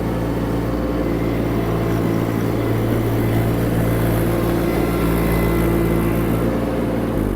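Baumalight mini skid steer's diesel engine running steadily as the machine works.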